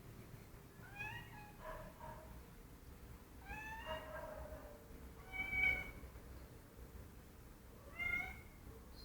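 Domestic cat meowing five times in short calls, some rising in pitch, the loudest a little past halfway.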